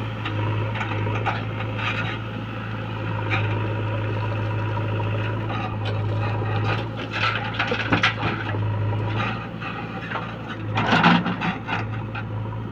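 Diesel engine of a JCB 3DX backhoe loader running steadily, with repeated knocks and clattering; the loudest clatter comes about eleven seconds in.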